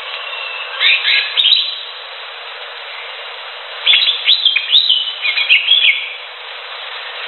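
Green leafbird (cucak hijau) singing in quick sweeping chirps: a short burst about a second in and a longer phrase from about four to six seconds, over a steady hiss.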